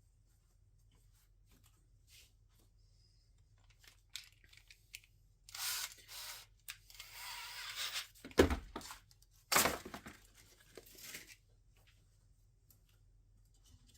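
Scraping and rustling of tools and objects being handled and put away on a workbench, with a dull knock partway through and a sharp scrape soon after. The first few seconds are nearly quiet.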